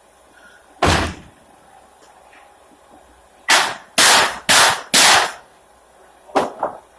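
Nails being driven into wooden pallet boards: seven sharp bangs, one about a second in, then a quick run of four about half a second apart in the middle, and two close together near the end.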